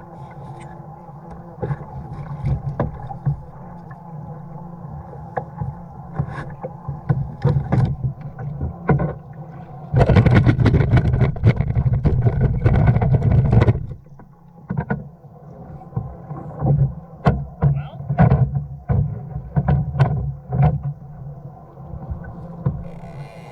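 Water sloshing against the hull of a fishing kayak at sea, with many short knocks and clunks on the hull, and a louder spell of rushing, splashing noise lasting about four seconds midway through.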